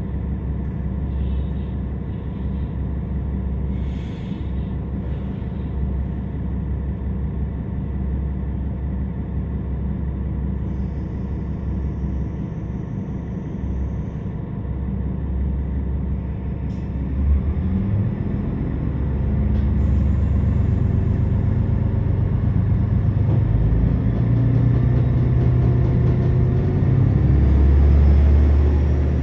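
KiHa 47 diesel railcar's engine idling with a steady low rumble, heard from inside the passenger cabin. About two-thirds of the way through, the engine note rises and grows louder as the railcar accelerates away from the station.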